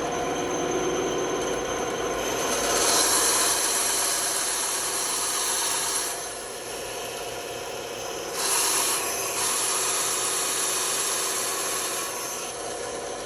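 Band saw running and cutting a thin piece of wood: a steady motor and blade hum with a hissing rasp. The rasp swells twice, from about two and a half seconds in and again from about eight seconds in, as the blade bites into the wood.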